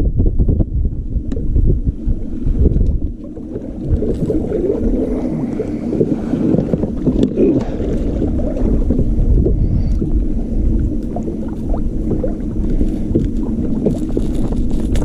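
Wind rumbling on the microphone aboard a kayak, with scattered knocks and rustles from handling.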